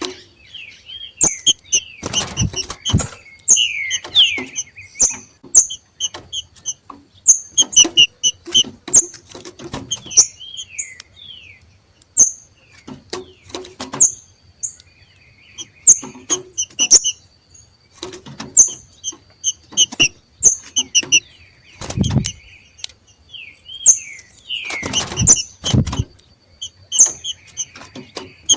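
Two green-winged saltators (trinca-ferro) giving the 'macheado' call, the call they make as they come into breeding condition: bouts of rapid short high chips mixed with downward-sliding whistled notes, repeated every second or two. A few low thumps and flutters come in between, the loudest about a third of the way in and again near the end.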